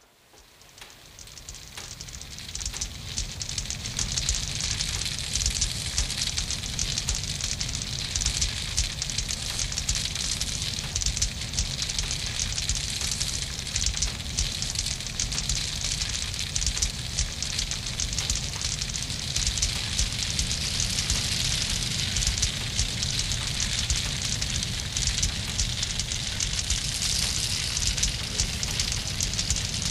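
Open fireplace wood fire crackling steadily with many small pops. It fades in from silence over the first few seconds.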